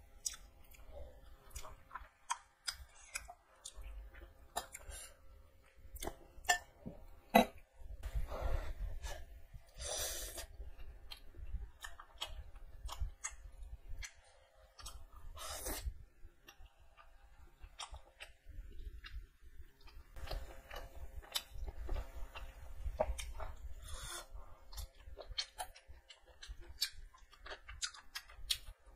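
Close-miked chewing of a mouthful of rice, boiled egg and chicken curry, with frequent wet mouth clicks and a few louder bursts.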